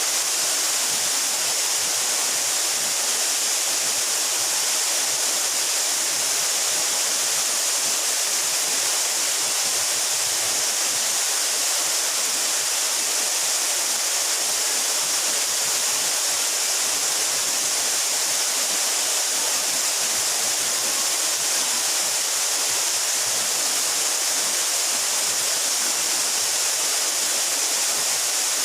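Steady rush of a 12-metre mountain waterfall: an even, hissing roar of falling water, unbroken throughout.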